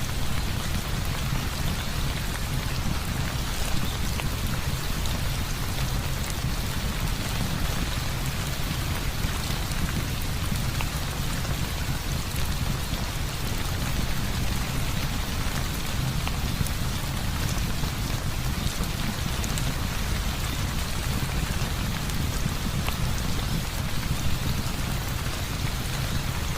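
Heavy rain falling steadily: a dense, even hiss with a deep low rumble beneath it and scattered faint ticks of drops.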